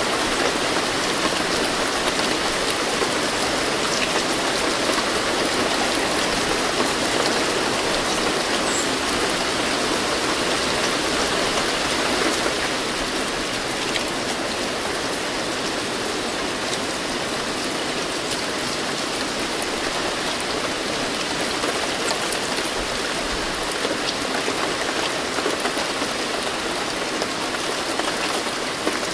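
Steady rain falling, a dense even hiss of drops with faint individual taps; it eases slightly about twelve seconds in.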